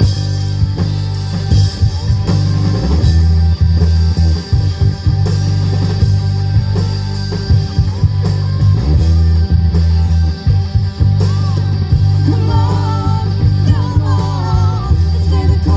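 Live rock band playing a song: guitar over a loud, pulsing bass and drums.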